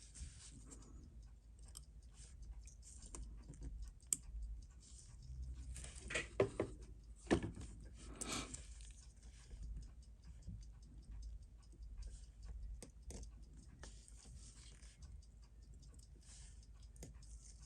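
Faint small clicks and taps of watchmaker's tools on the tiny metal parts of a Seiko 6138 chronograph movement being taken apart, with a few sharper clicks in the middle.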